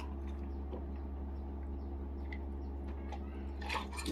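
Steady low electrical hum of room tone, with a few faint clicks and a brief louder rustle near the end.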